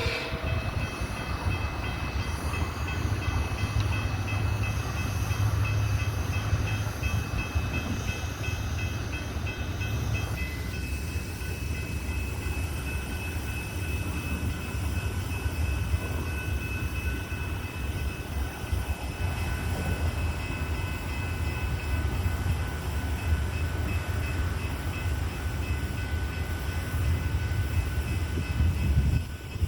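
Coal train moving on the rails, a steady low rumble that holds for the whole stretch.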